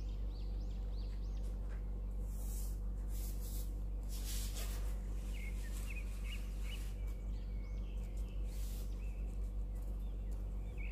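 Birds chirping repeatedly in short calls over a steady low hum, with a few brief rustles in between.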